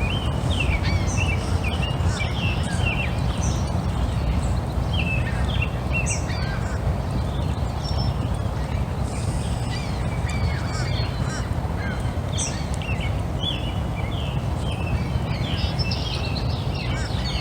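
Small birds chirping and calling in repeated bursts of short, gliding notes over a steady low rumble.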